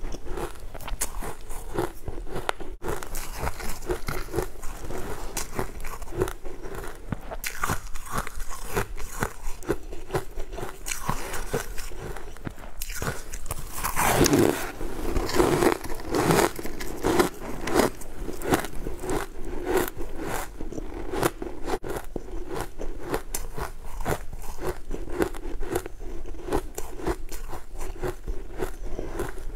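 A person chewing and biting soft purple cakes with a granular, crunchy coating, close-miked: continuous wet mouth clicks and crunching, loudest at a big bite about halfway through.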